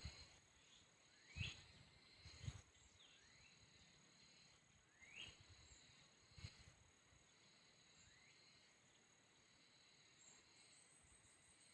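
Faint mountain nature ambience: a steady high-pitched insect drone, with a few short rising bird whistles scattered through and a few soft low thumps in the first seven seconds. Near the end a rapid pulsing insect chirp joins in.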